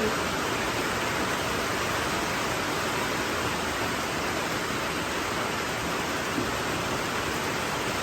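Heavy rain falling: a steady, even hiss with no break.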